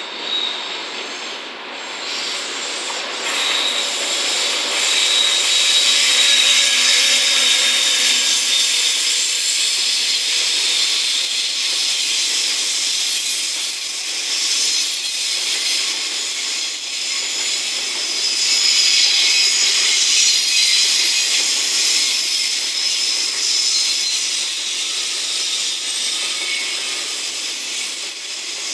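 Container freight train hauled by a JR Freight EF210 electric locomotive passing close by: the locomotive comes in, then a long run of container wagons rolls past. The wheels on the rails make a steady high-pitched hiss with a thin squeal now and then. The sound builds over the first few seconds, then stays loud.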